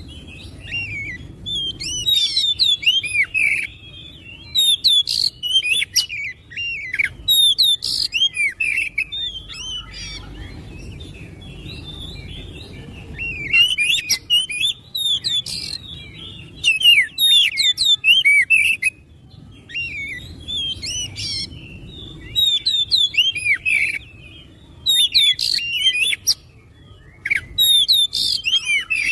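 Oriental magpie-robin singing: groups of fast, varied whistled and chattering notes a few seconds long, separated by short pauses.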